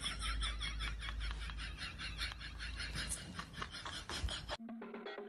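Young macaque giving a rapid, even string of short high squeaks over a low rumble. About four and a half seconds in, this cuts off abruptly and music with a steady beat starts.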